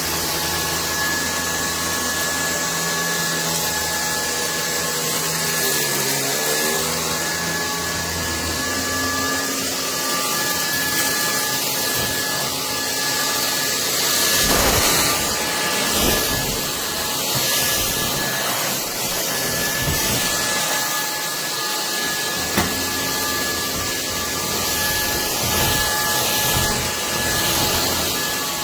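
SKIWEC cordless stick vacuum running: a steady motor whine with a high tone over rushing air, the lower hum shifting in pitch about six seconds in.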